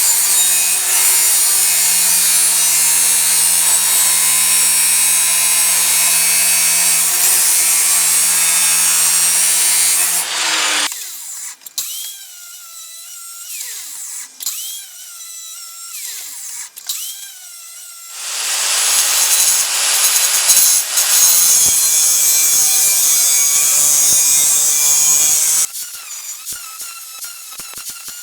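An electric power tool works metal in two long spells, one of about ten seconds and one of about seven, with a steady motor hum under a dense grinding hiss. Between and after them it runs much quieter, with faint wavering tones.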